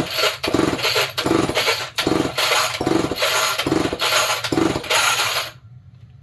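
Homelite two-stroke chainsaw being pulled over again and again on its recoil starter with the spark plug out for a compression test, about seven quick pulls in a row with the rope and engine whirring on each pull, stopping near the end. The test shows about 120 psi cold, acceptable compression for this saw.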